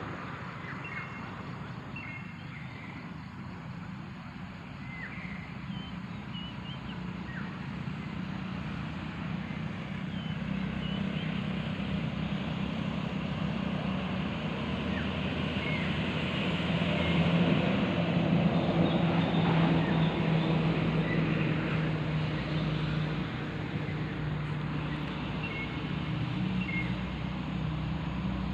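A motor vehicle's engine hum that swells to its loudest about two-thirds of the way through and then eases off, as it passes. Short bird chirps sound over it now and then.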